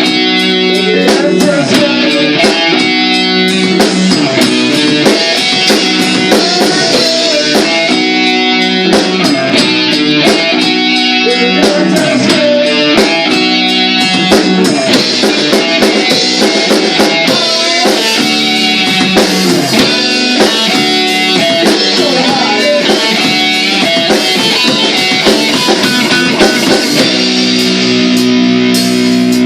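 A rock band rehearsing a song: electric guitar playing a riff over a drum kit, settling into a held, ringing chord near the end.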